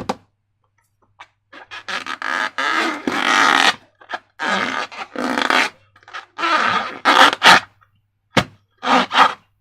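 Slime being squished and worked by hand, in a series of wet squelching bursts, each about a second long, with short pauses between them.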